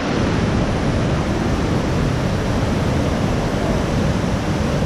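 Steady, loud rush of a waterfall on the Krupa River, water pouring over limestone steps.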